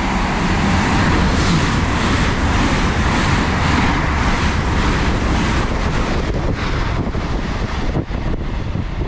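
A pair of LNER Azuma trains, a Class 801 coupled to a Class 800, passing through the station at speed. It is a loud, steady rush of wheels on rail and air, with a low rumble and wind buffeting the microphone, easing slightly near the end as the train clears.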